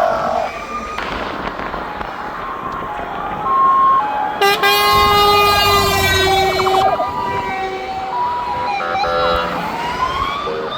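Sirens of several fire engines sounding together, their tones stepping between pitches. A long horn blast starts suddenly about four seconds in and lasts over two seconds, and a siren tone rises near the end.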